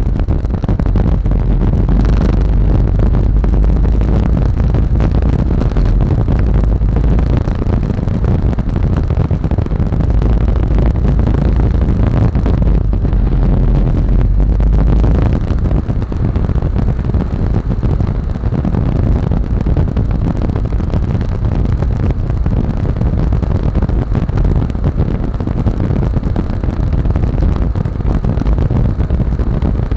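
Yamaha Lexi scooter's single-cylinder engine running steadily while being ridden, under a heavy, continuous low rumble; it eases slightly about halfway through.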